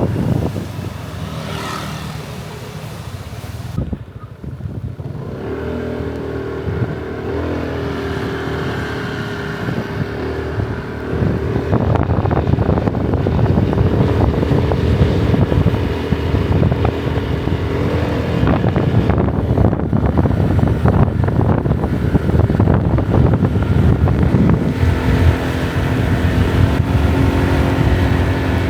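Motorbike engine running while riding, its note shifting up and down with speed, with wind buffeting the microphone.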